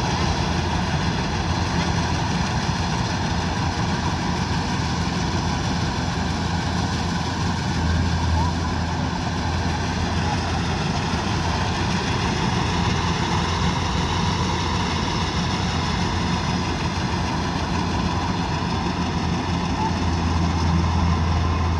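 Kubota DC-105X combine harvester's diesel engine running steadily at working speed, a constant low hum that swells slightly twice.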